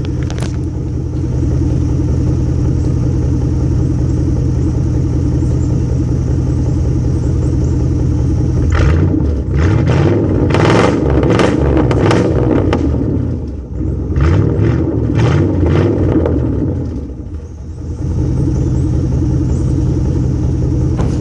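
2001 Cadillac Escalade's 5.7-litre V8 running through a straight-piped exhaust that is not yet welded, one pipe pointing straight down. It idles steadily, then about nine seconds in is revved in a string of quick blips for about nine seconds, and settles back to idle.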